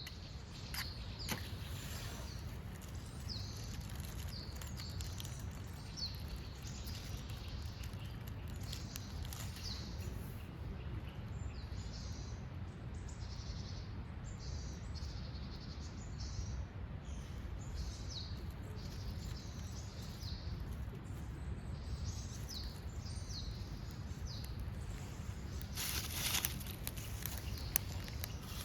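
Small birds calling outdoors, short high chirps repeated over and over, above a steady low rumble of outdoor noise. About 26 seconds in there is a brief louder rush of noise.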